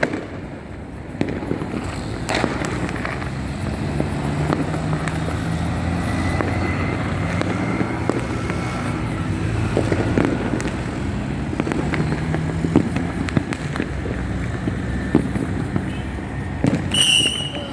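Continuous crackling and popping of many fireworks and firecrackers going off all around, over a low steady rumble.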